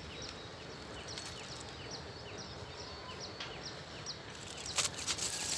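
A small bird calling with short, high, downward chirps repeated evenly about two or three times a second, over steady outdoor background noise. A sharp click comes near the end.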